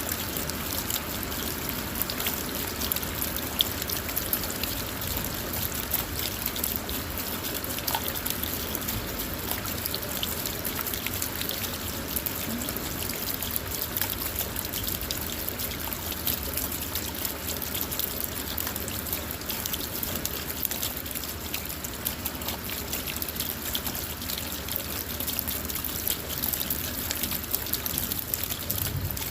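Steady rain falling on a car, heard from inside: an even hiss of rain dotted with many small drop ticks, with no pause or change.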